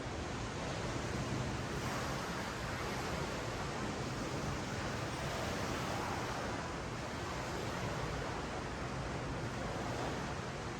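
Ocean waves washing up and down a sandy beach, a steady surf wash that swells slightly and eases, with some wind on the microphone.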